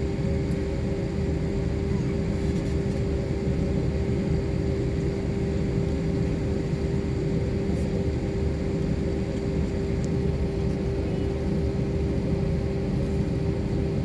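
Airliner cabin noise: the steady drone of the engines and airflow, with a constant hum, unchanging throughout.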